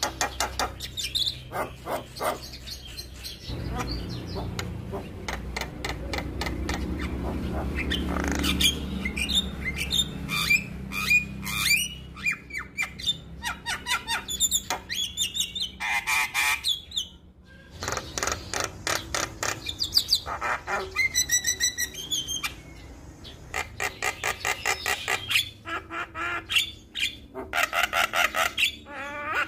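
Male Javan myna singing a long, rapid, chattering song of harsh squawks and whistled notes, with brief pauses. A low hum sits under the song for several seconds in the first half.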